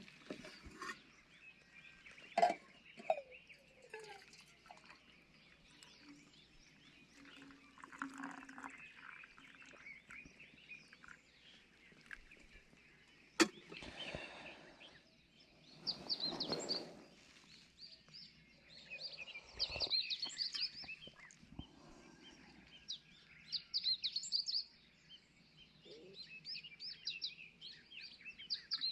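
Outdoor ambience with clusters of short, high chirping calls that come and go, broken by a few sharp cracks, the loudest about halfway through.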